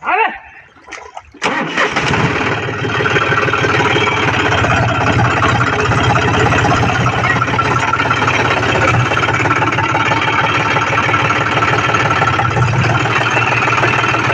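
John Deere tractor's diesel engine starting up about a second and a half in, then running steadily and loudly.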